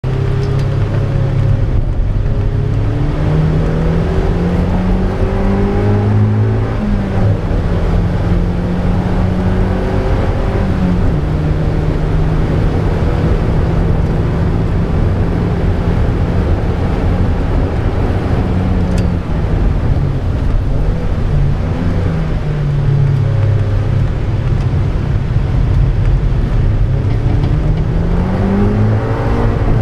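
Motor vehicle engine running continuously, its pitch rising and falling as it speeds up and eases off, climbing steeply near the end, over a steady rushing noise.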